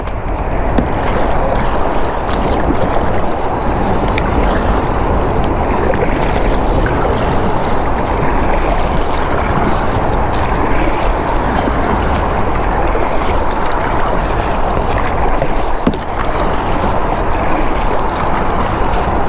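Steady rushing noise of wind and moving creek water around a kayak, with a few faint clicks.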